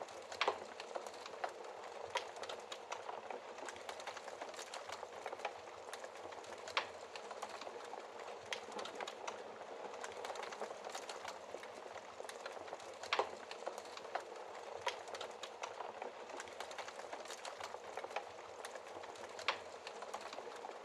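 Wood fire burning in a fireplace: a steady hiss with frequent small crackles and a handful of sharper, louder pops scattered through.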